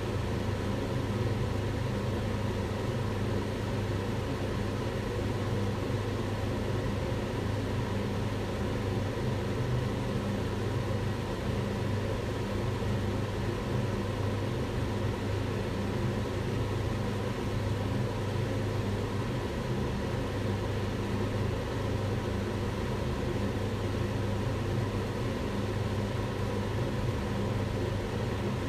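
Kitchen extractor hood fan running steadily: an even whooshing rush with a low hum and faint steady tones, unchanging throughout.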